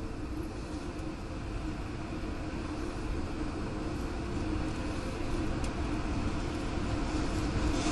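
Steady low rumble of a moving vehicle, growing slightly louder about three seconds in, with a faint click a little past halfway.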